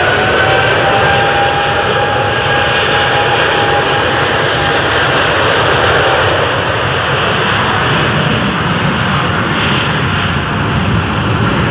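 Boeing 747-8F's four GEnx-2B turbofan engines at takeoff thrust: a loud, steady jet roar, with a high whine that levels off after rising and fades into the roar about five seconds in.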